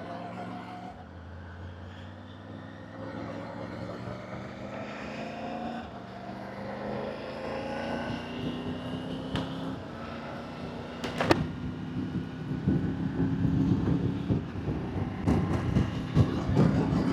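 Motorbike engine accelerating through the gears, its pitch climbing and dropping back at each shift, heard through a helmet-mounted wireless mic. In the second half wind buffeting grows louder as speed builds, with a sharp click about eleven seconds in.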